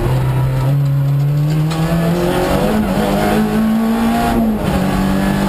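Clio RS Group A7 rally car's four-cylinder engine, heard from inside the cabin, pulling hard out of a slow junction. The revs climb steadily, then dip briefly about four and a half seconds in at a gear change before it pulls on again.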